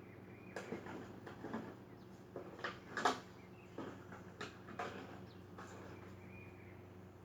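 A toy being knocked about: about ten irregular clacks and knocks, the loudest about three seconds in, over a steady low hum.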